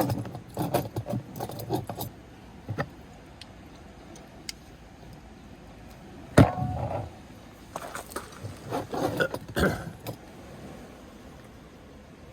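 Objects being handled: bursts of small clinks and knocks, with one sharp loud knock about halfway through and a few seconds of quiet between the bursts.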